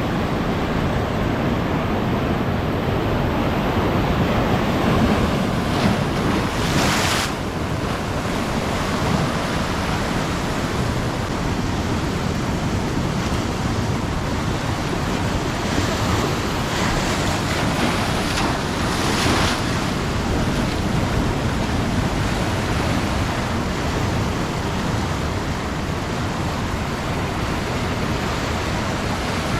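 Ocean surf: a steady hiss of waves breaking and washing up the beach, with louder hissing washes about seven seconds in and again around sixteen to twenty seconds.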